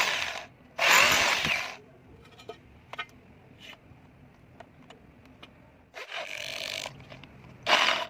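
Tool work on the steel arm of a satellite dish: two loud bursts of about a second each near the start, a stretch of light clicks and knocks, then more bursts near the end.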